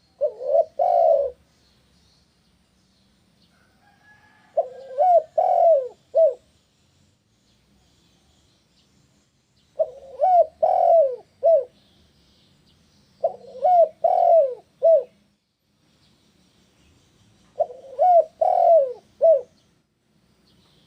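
Spotted dove (tekukur) cooing: five calls roughly four seconds apart, each a short run of three to five low coos. Faint high chirping of small birds lies underneath.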